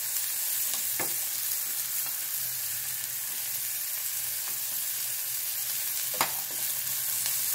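Sliced onions and green chillies sizzling in hot oil in a kadai, stirred with a wooden spatula, with a few sharp knocks of the spatula against the pan about a second in and near the end.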